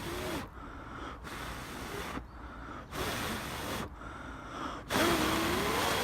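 A person blowing long, steady breaths into a smouldering tinder bundle with burning char cloth to bring it to flame: four blows of about a second each with short pauses between, the last one the loudest.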